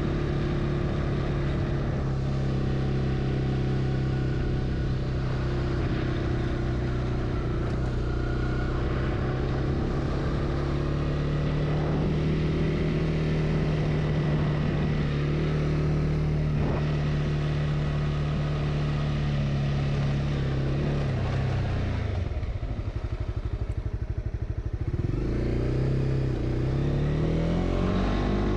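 Honda CB300R's single-cylinder engine running at a steady cruising speed, its pitch dropping about three quarters of the way through as the bike slows, staying low for a few seconds, then rising again as it accelerates.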